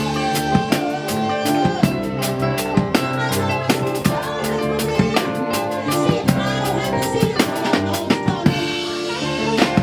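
Live gospel band playing an instrumental passage: busy drum kit with snare and bass drum hits over sustained chords. The drums drop out for about a second near the end, then come back in.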